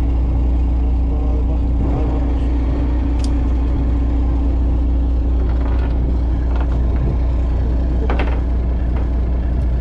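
Fishing boat's engine running steadily, a constant low drone with a steady hum above it, and a few faint knocks about three and eight seconds in.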